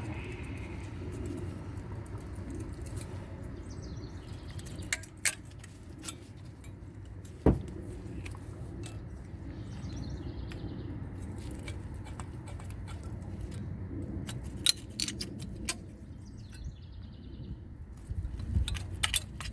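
Scattered sharp metallic clicks and clinks of tools working stuck, rusted brake pad clips out of a car's rear caliper bracket, over a steady low hum.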